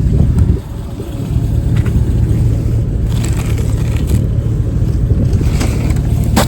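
Steady low rumble of the Tahoe driving, with road and wind noise, and a few short cracks and scrapes near the end.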